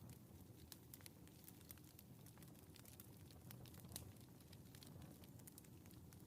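Faint wood fire crackling in a fireplace: many small irregular pops over a low steady rumble.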